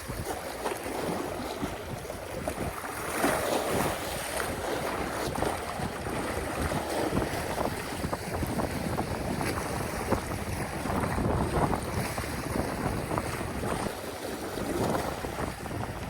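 Strong wind gusting across the microphone, with sea waves washing on the shore underneath.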